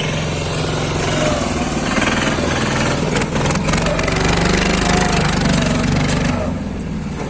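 Lombardini single-cylinder diesel engine of a two-wheel 'pat pat' tractor running hard, its rapid firing pulses steady, speeding up from about four seconds in, then dropping back near the end.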